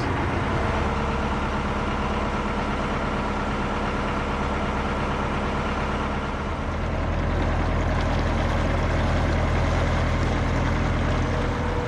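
Narrowboat engine chugging steadily at cruising pace, its low note growing a little fuller a bit past halfway.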